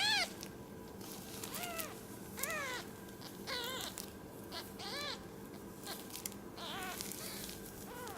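Four-day-old kittens mewing: about six short, high cries that rise and fall in pitch, each well under half a second, the loudest at the very start.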